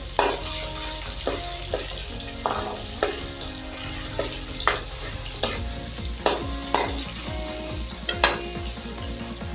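Chopped onion, green chilli and garlic sizzling in hot oil in a metal kadhai, stirred with a metal ladle that scrapes and knocks against the pan several times.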